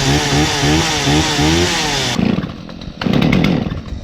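Two-stroke Stihl chainsaws warming up: the throttle is blipped, the engine pitch rising and falling quickly about three times a second. About two seconds in the revving stops and the saw drops back to a lower, quieter idle.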